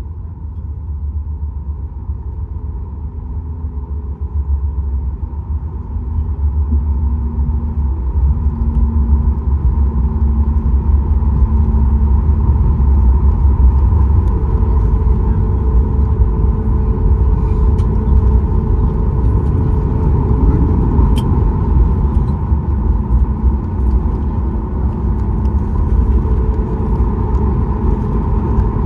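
Cabin noise inside a Boeing 737 MAX 8, heard from a window seat: a steady low rumble of engines and airflow that grows louder over the first ten seconds or so and then holds, with faint steady engine tones above it.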